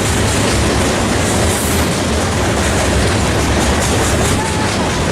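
A train passing close by: a loud, steady rumble of wheels on the rails that keeps an even level throughout.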